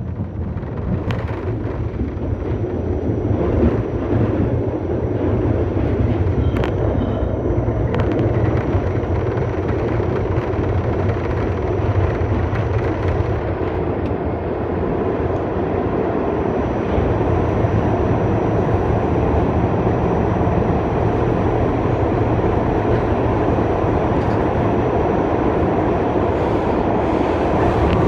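R68 subway train running at speed through a tunnel, heard from inside the car: a steady rumble of wheels on rail with a few sharp clicks from rail joints in the first several seconds.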